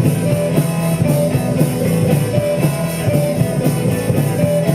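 Live rock band playing an instrumental passage: electric guitars, bass and drum kit keeping a steady beat, with no vocals.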